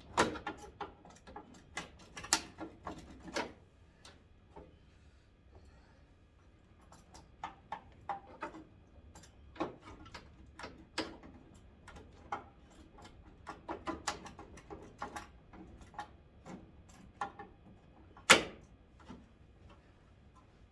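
Irregular clicks and knocks of hand tools and plastic headlight parts being handled on a 1991 Ford Ranger, in clusters with quieter gaps and one sharp knock near the end.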